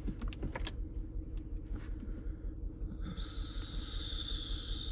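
A 2009 Lincoln MKS's 3.7-litre V6 idling with an uneven low pulse, misfiring on cylinder 5 and shaking the car. A few clicks come in the first second or so, and a steady hiss starts about three seconds in and lasts about two seconds.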